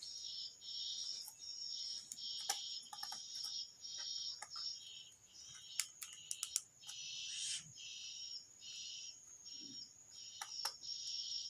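High-pitched animal chirping repeating about twice a second over a steady high whine, with scattered small sharp clicks.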